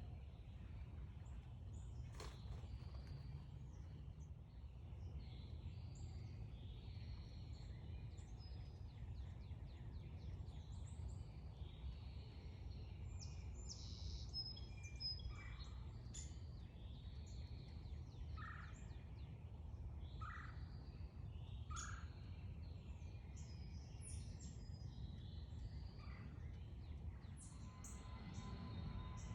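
Songbirds calling in short, scattered chirps and tweets, faint over a steady low rumble.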